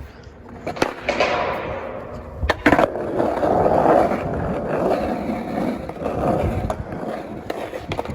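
Skateboard wheels rolling on concrete, the rolling rising to its loudest about three to four seconds in, with a few sharp clacks of the board along the way.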